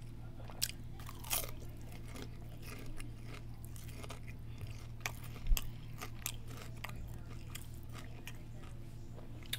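A person chewing food with the mouth close to a microphone: scattered short, wet clicks and crunches, loudest about five and a half seconds in, over a low steady hum.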